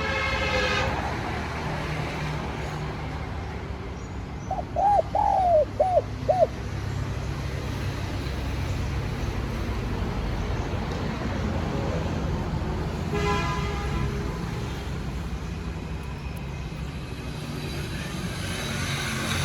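Spotted dove cooing one phrase of about five notes about five seconds in, over a steady low rumble like distant traffic. A short horn-like toot sounds at the very start and again about two-thirds of the way through.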